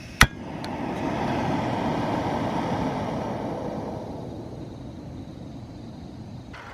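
A sharp metallic clink, then a vehicle passing by: a broad rushing noise that swells over about a second, holds, and fades away over the next few seconds.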